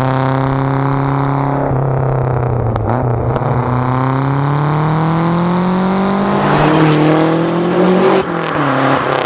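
Lancia Delta's engine pulling under load, its pitch holding and then climbing steadily over several seconds. A loud hissing rush joins in about six seconds in and cuts off about two seconds later, as the revs drop sharply.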